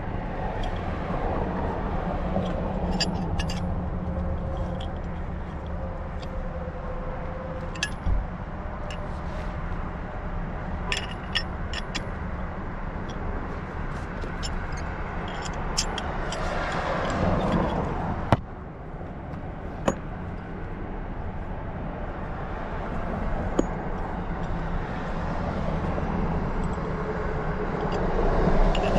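Scattered sharp metal clicks and clinks as new faucet valve seats are screwed into the faucet body, over a steady low hum.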